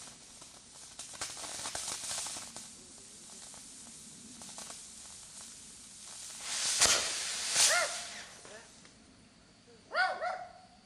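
Fireworks hissing and crackling, with two loud sharp bangs and bursts of hiss about seven seconds in.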